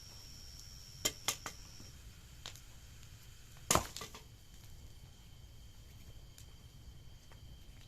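Burning wood in a bonfire cracking and popping: three quick cracks about a second in and one loud pop near the middle, over crickets trilling steadily.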